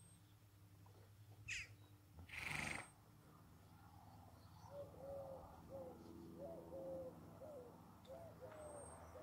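A bird calling in the background: a run of short, low, arched notes, about two a second, starting about five seconds in. Before it comes a brief rush of breathy noise, the loudest sound, and a single high chirp.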